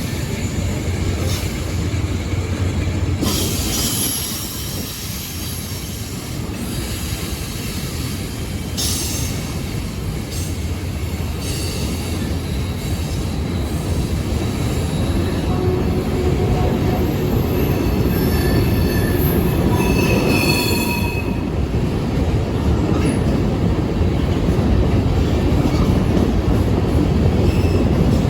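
A train rolling past with a steady rumble, its wheels squealing against the rails in high, wavering tones that come and go. The rumble grows louder toward the end.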